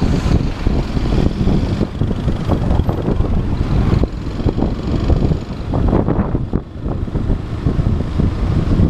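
Motorcycle being ridden, its engine running under heavy wind buffeting the camera microphone.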